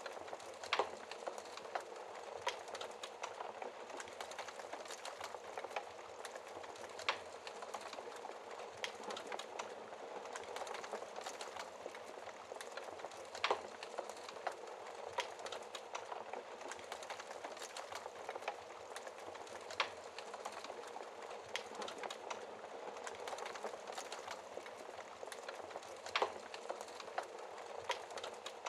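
Wood fire crackling in a fireplace: a steady soft hiss with sharp pops scattered irregularly, a few louder ones every several seconds.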